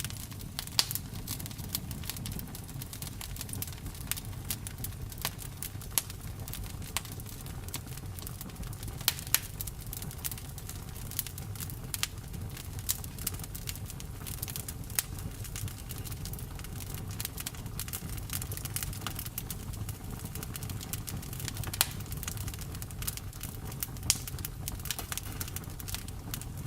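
Campfire burning and crackling: irregular sharp pops and snaps, a few louder than the rest, over a steady low rumble.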